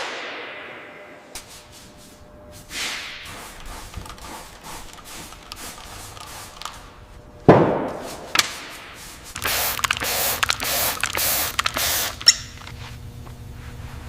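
Workshop sounds of metal being handled. A knock rings at the start and light clicks and taps follow, then a loud thud about halfway through. After that comes about three seconds of pulsing hiss like compressed air or a spray, which stops with a last click.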